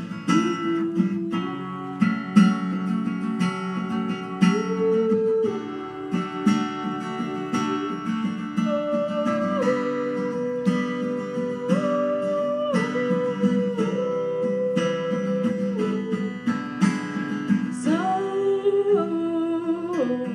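Plucked strings playing chords in an instrumental break between verses of a song, with a held melody line that slides between notes above them.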